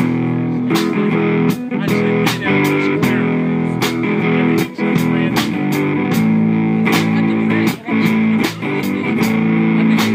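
Live band playing an instrumental passage of a blues song: guitar and bass over a steady beat of sharp hits.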